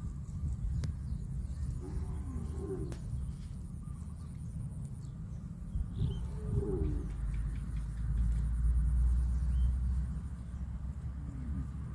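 Cow calling in short moos, three times, over a steady low rumble.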